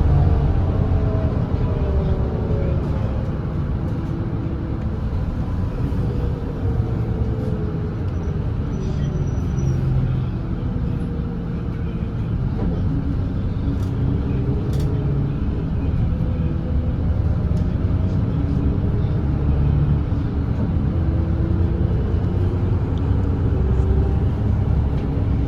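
Volvo B8RLE double-decker bus's diesel engine running at cruising speed on an expressway, a steady drone with a heavy low rumble of engine and road noise. Its engine tones drift slowly down and up in pitch as the load changes.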